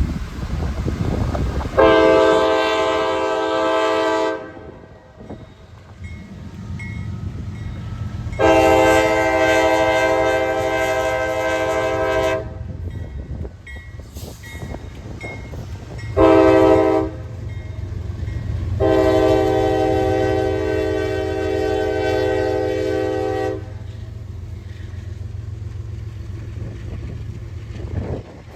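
Diesel locomotive's multi-chime air horn sounding the grade-crossing signal: two long blasts, a short one, then a final long blast, over the steady low rumble of the passing train.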